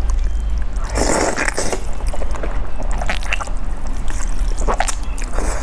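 Spicy noodles being slurped and chewed close to the microphone, in several short wet bursts over a steady low hum.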